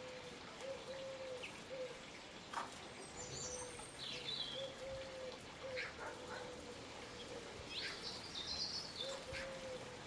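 Birds calling: a low note repeated over and over, with brief high chirps and twitters above it.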